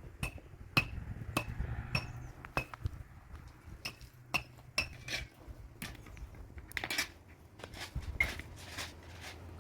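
Repeated sharp knocks of a hard object being struck, about two a second, each with a brief ringing tone.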